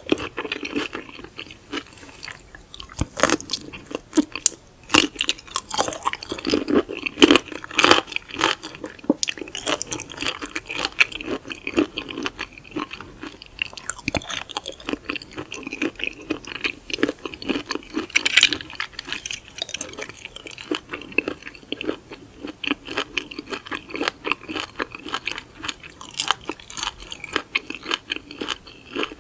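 Close-miked chewing and biting of raw seafood (raw abalone and soy-sauce marinated shrimp): a rapid, steady run of crunchy mouth clicks, with a few louder bites.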